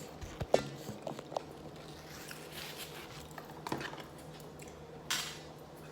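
Light clicks and knocks of takeout food containers and utensils being handled on a table, with a short rustle about five seconds in.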